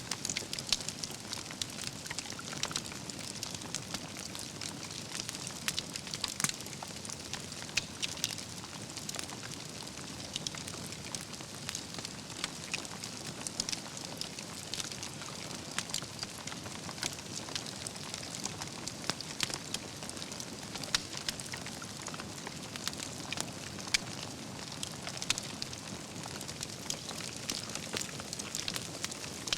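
Wood campfire burning, with steady crackling and frequent sharp pops of logs and embers scattered irregularly over a soft hiss.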